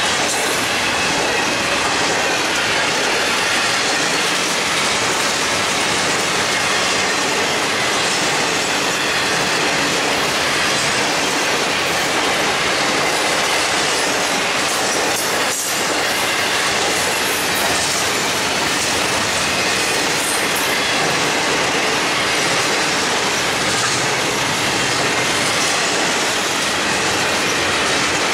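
Cars of a long intermodal freight train, trailers on flatcars and double-stack containers, rolling past at speed: a steady, loud rush of steel wheels on rail, dipping only briefly about halfway through.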